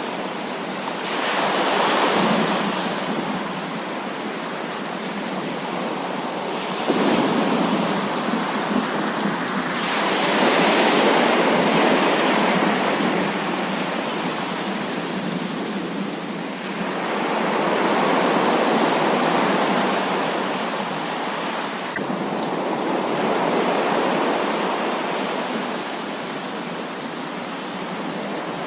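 Heavy rain falling steadily, with rolls of thunder that swell and fade about four times; one starts abruptly about seven seconds in.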